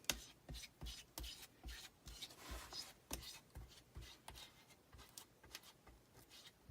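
An adhesive stencil transfer being rubbed down onto a surface by hand, in faint, even strokes about two a second, smoothing it flat to press out air bubbles.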